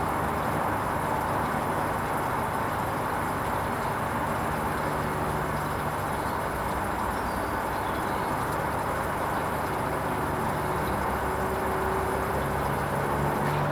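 Hoover Vision HVP16 washing machine running on its Silks 30 programme: a steady rushing noise with a low hum. Near the end a motor tone comes in.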